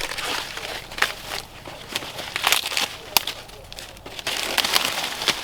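Dry leaves or plant material rustling and crinkling as they are handled, with irregular sharp crackles and snaps, louder again near the end.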